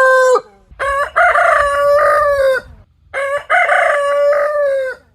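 Rooster crowing: the end of one crow, then two full cock-a-doodle-doo crows of about two seconds each with short gaps between them.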